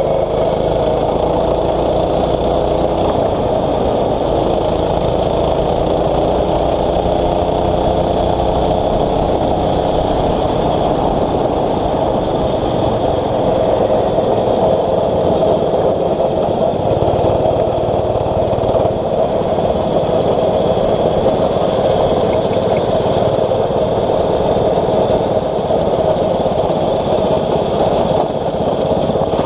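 Single-cylinder 6.5 hp four-stroke kart engine running steadily, heard onboard the kart, its pitch shifting in the first few seconds.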